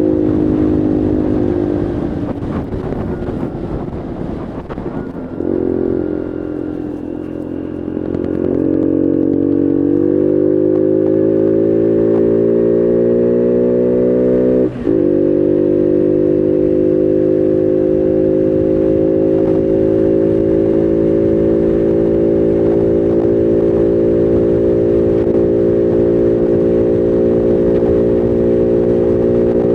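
Bullit Heritage 125cc monkey bike's single-cylinder four-stroke engine under way. Revs fall in the first few seconds, then climb in steps under acceleration. About halfway through they break off for a moment at a gear change, then hold steady at cruising speed.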